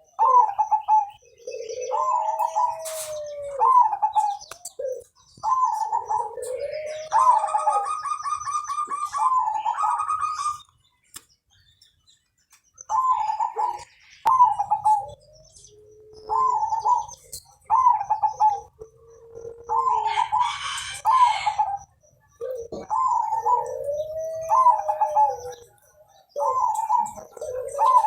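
Zebra dove (perkutut) singing its cooing song over and over: each phrase is a run of quick short coos ending in a long arched coo, with a pause of a couple of seconds near the middle. A higher, rapid chirping joins in briefly about a quarter of the way in.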